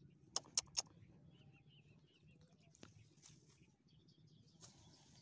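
Three sharp clicks in quick succession about half a second in, then faint bird chirps over a quiet outdoor background.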